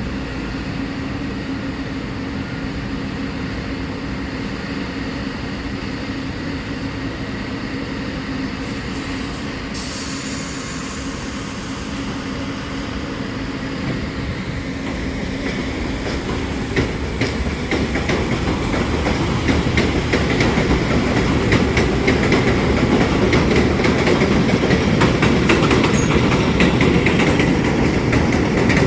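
New York City subway train on the 1 line, running with a steady rumble and a brief high hiss about a third of the way in, then growing louder from about halfway, with wheels clattering over the rail joints.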